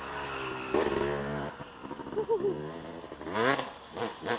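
Motocross dirt bike engines revving, their pitch rising and falling again and again as the throttle opens and closes, with a sharp surge about a second in and another about three and a half seconds in.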